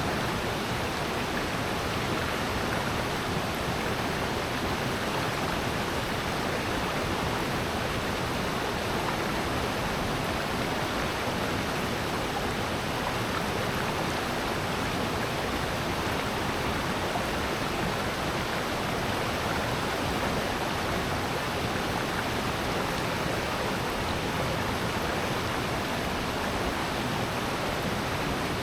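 Valley stream and waterfall water rushing in a steady, unbroken wash.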